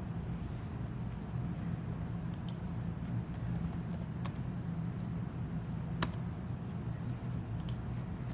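Scattered clicks of a computer mouse and keyboard as a drawing is worked in CAD software, over a steady low hum; the sharpest click comes about six seconds in.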